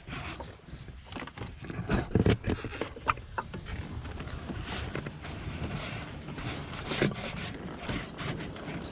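Handling noise of an ignition coil being worked back down into its spark-plug well on a Ford 5.4L three-valve V8: irregular scrapes, rustles and knocks of plastic against the engine. The loudest knocks come about two seconds in and again about seven seconds in, with a couple of short squeaks just after three seconds.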